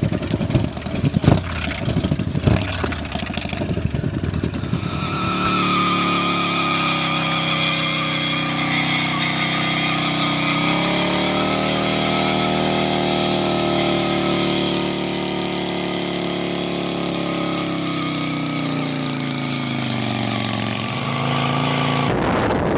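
Motorcycle engine running: rough and crackling for the first few seconds, then a steady drone that climbs in pitch about ten seconds in, holds there, and drops back near the end.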